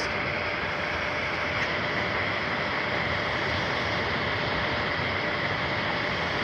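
3D printer running mid-print: a steady whirring noise with a faint steady tone.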